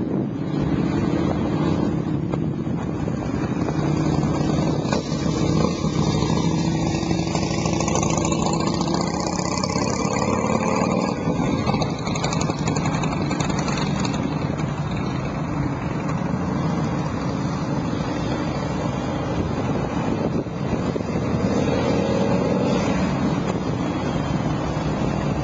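Harley-Davidson Ultra Classic's V-twin engine running steadily at idle through a D&D Fat Cat 2-into-1 exhaust.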